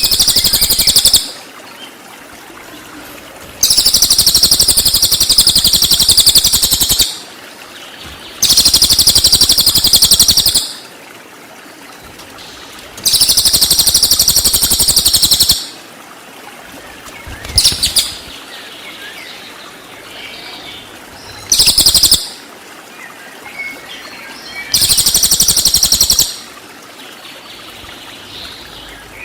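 A cililin sings in rapid, very high-pitched trilling bursts, the 'tembakan' song. There are about seven bursts, each from under a second to about three seconds long. Between them is a faint background hiss.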